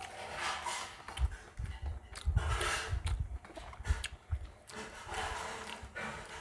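Close-up chewing and wet mouth sounds of a person eating rice and saag by hand, with fingers rubbing and mixing rice on a metal plate. Several dull knocks come in the middle.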